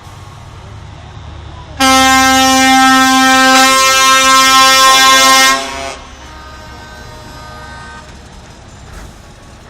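A truck air horn blasts loud and steady for about four seconds, starting about two seconds in, its chord of tones shifting partway through. A fainter horn follows, and truck engines rumble low underneath.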